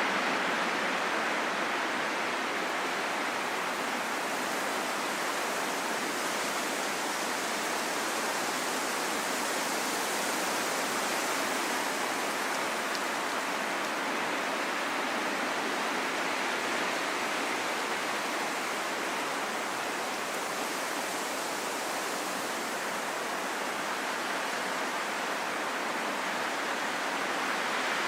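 Steady rain falling in a forest: an even, unbroken hiss with no separate drops or thunder standing out.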